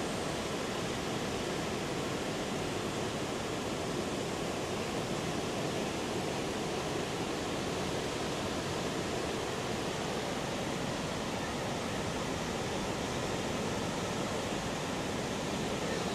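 Heavy ocean surf raised by an approaching typhoon, breaking continuously as a steady, even rush of noise with no single crash standing out.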